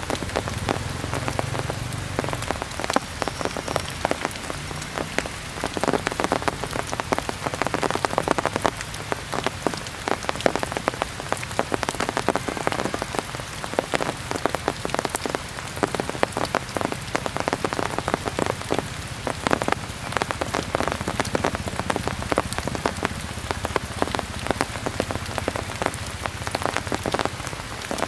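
Heavy rain falling steadily, with a dense run of drops striking a hard surface.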